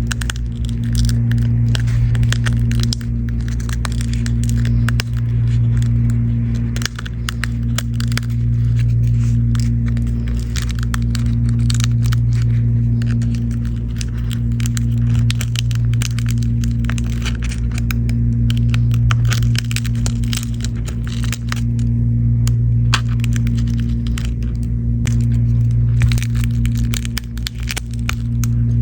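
A steady low hum with many small, sharp cracks and clicks over it.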